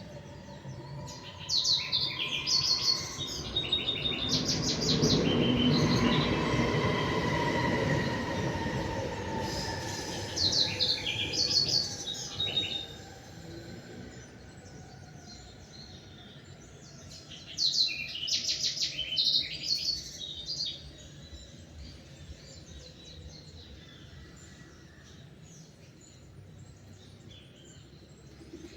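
Small songbirds singing in short bursts of quick chirping phrases, three times over. Under the first half a passing rumble swells and fades, carrying a slow falling whine.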